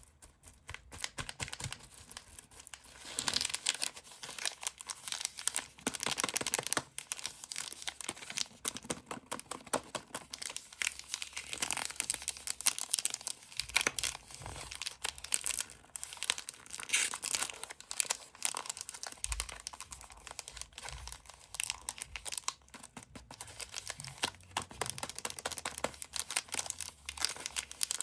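Crinkly plastic lollipop wrappers being crumpled and torn open close to the microphone: a dense, irregular crackling with sharper tearing bursts.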